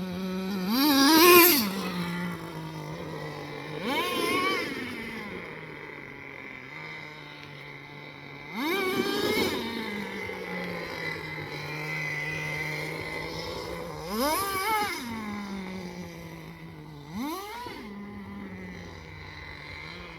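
Small nitro glow engine of an RC10GT radio-controlled truck running at a steady high idle, revved up sharply and falling back about five times.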